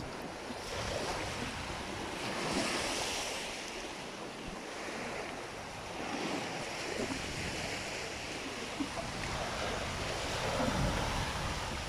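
Sea waves washing on the shore, with wind buffeting the microphone; the wash swells and falls, louder about two to three seconds in and again near the end.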